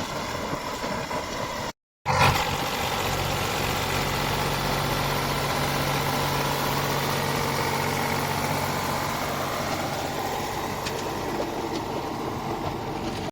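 Tractor diesel engine running steadily. The sound cuts out for a moment about two seconds in and comes back with a brief louder burst, then settles into an even drone.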